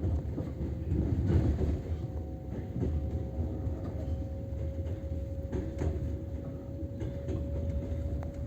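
Train rolling out of a station: wheels knocking over rail joints now and then over a low rumble, with a steady hum running underneath.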